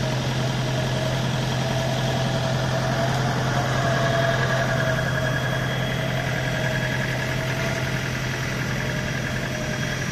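Off-road 4x4 engine idling steadily with an even low hum.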